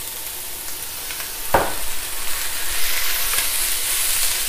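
Rice, beansprouts and vegetables sizzling in a hot wok just splashed with a little water. A sharp knock comes about one and a half seconds in, then the sizzling grows louder as the food is stir-fried with a spatula.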